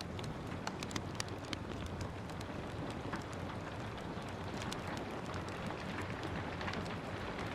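Steady rain falling, with frequent small sharp pops and crackles from a wood fire burning in a fireplace.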